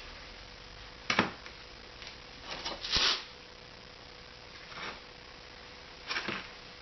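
Short scrapes and knocks of a freshly cast aluminum muffler half being handled and freed from its mold. There are four separate bursts, the loudest about three seconds in.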